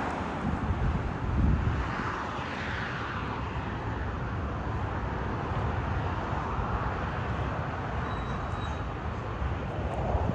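Jet airliner engines running as the plane passes, a steady noise whose pitch sweeps slowly down and up, with wind buffeting the microphone.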